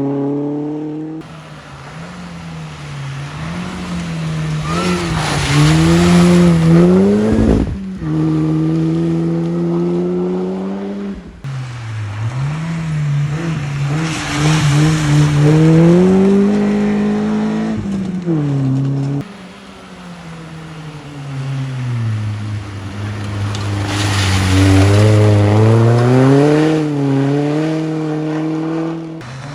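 Rally cars at racing speed, one after another, each engine revving up and dropping back through gear changes as the car approaches and passes; about five passes in a row, each cut off sharply where the next begins, the loudest near six, fifteen and twenty-five seconds in.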